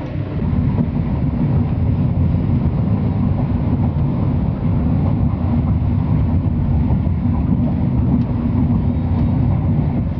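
Passenger train running along the line, heard from inside the carriage: a steady low rumble that grows a little louder about half a second in.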